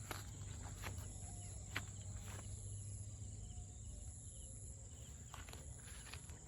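A steady high-pitched insect drone with a second higher buzz that comes and goes, under scattered footsteps on a path.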